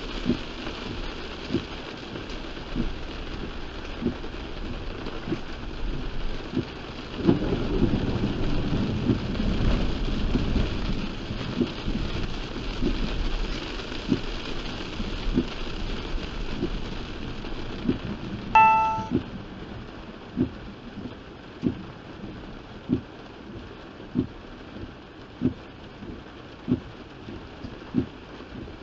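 Heavy rain drumming on a moving car, with the windshield wipers knocking at an even beat of about one stroke every second and a quarter. A low rumble of thunder swells about a quarter of the way in and fades, and a short electronic beep sounds about two-thirds of the way through. After the beep the rain hiss is lighter.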